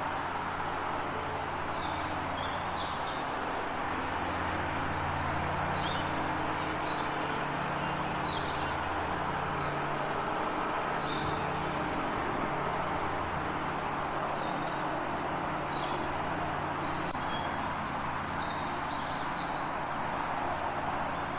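Small birds chirping in short, scattered high calls over a steady background rumble and hiss.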